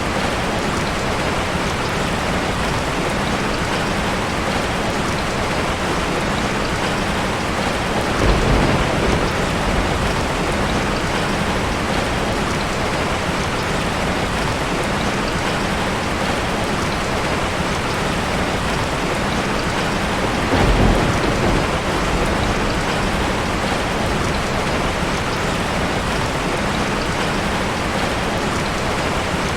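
Heavy rain falling steadily on a tin roof, with two short low rumbles of thunder, about eight seconds in and again about twenty-one seconds in.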